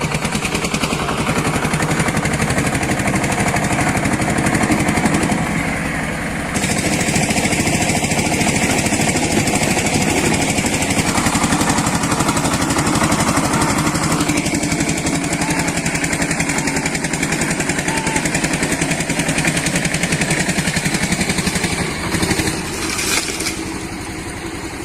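Eicher tractor's diesel engine running hard and steady with an even throb, as when pulling a poplar tree out by the roots. It eases off briefly about six seconds in and again near the end.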